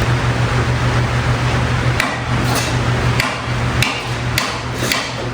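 A series of about seven sharp taps, roughly one every half second, starting about two seconds in: hand-tool or hammer blows on metal during repair work on a Jeep grill and headlight brackets. A steady low hum runs underneath.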